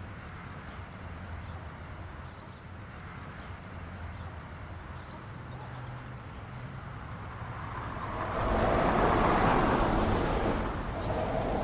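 Outdoor traffic ambience with a steady low rumble; about eight seconds in, a vehicle's noise swells suddenly and stays loud, easing briefly near the end.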